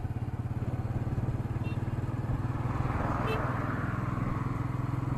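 Royal Enfield Meteor 350's single-cylinder engine running at a steady road speed with an even low beat. Wind noise on an action camera's built-in microphone grows louder about halfway through.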